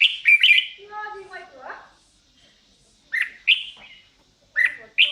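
A bird singing in bursts of sharp, high chirps, with a softer, lower warbling phrase between them and a short pause in the middle.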